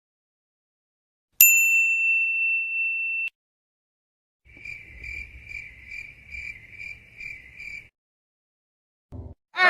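A single clear electronic ding that starts sharply, holds for about two seconds and cuts off abruptly. After a short gap, a high chirping tone pulses about twice a second for roughly three seconds.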